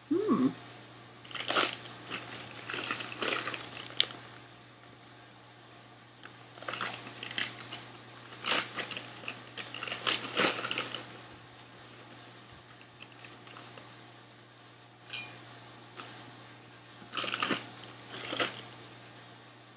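Close-up crunchy chewing of a grilled cheese sandwich filled with Flamin' Hot Fritos corn chips, in several bursts of crunching with pauses between. Near the end the chip bag crinkles as a hand reaches into it.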